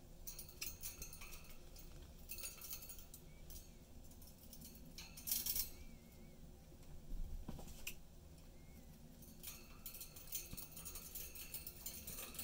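Budgies chattering: intermittent bursts of scratchy high chirps and clicks, with a few faint short warbled whistles.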